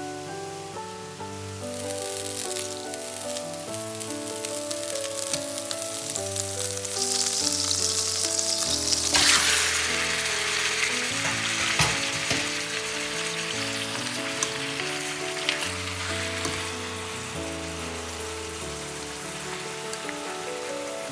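Butter and then soy-marinated chicken wings sizzling in a hot nonstick frying pan; the sizzle starts about two seconds in and swells sharply about nine seconds in as the wings and marinade go in. Background music plays underneath.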